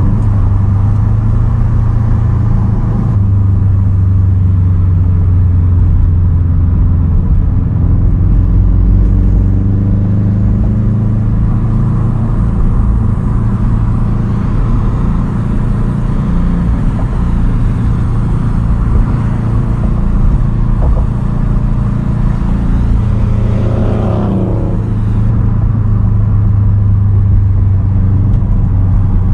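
2010 Subaru WRX STI's turbocharged flat-four engine running under driving load through a Tomei Expreme titanium single straight-pipe exhaust, a loud, steady low drone. About three-quarters of the way through, the engine note climbs briefly as it revs up.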